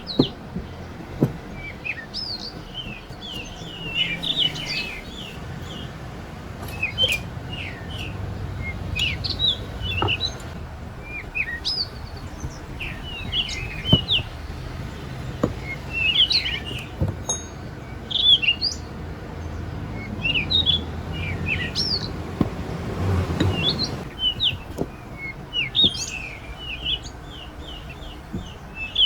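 Small birds chirping over and over in quick short calls, with a few sharp clicks now and then and a low steady rumble underneath.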